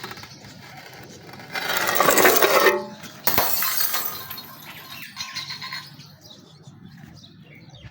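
Glass bottles being crushed and shattering: a loud crunching burst of breaking glass about one and a half seconds in, then a sharp crack and more shattering just after three seconds, with smaller crunches after.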